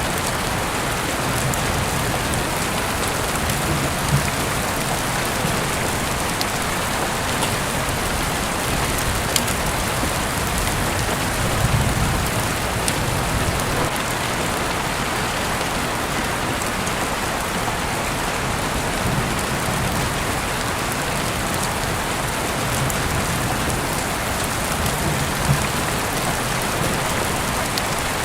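Steady heavy rain, a dense even hiss of falling water, with a few louder single drops ticking sharply close by.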